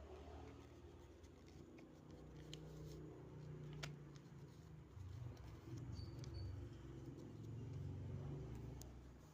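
Faint paper handling as a paper boat is folded: a few small sharp clicks and rustles over a low steady hum.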